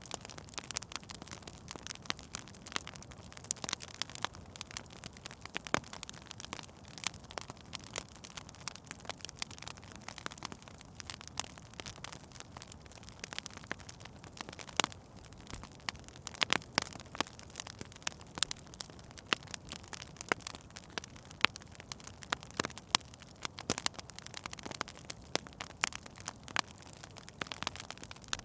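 Wood fire burning in a fireplace, crackling and popping irregularly over a soft steady hiss.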